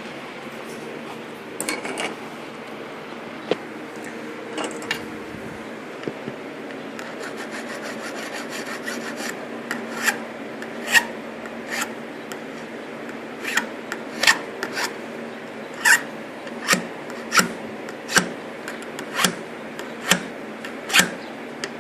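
A hand file drawn across the steel edge of a work knife to sharpen it. There is a low continuous scraping at first; from about ten seconds in come separate rasping strokes, a little more than one a second.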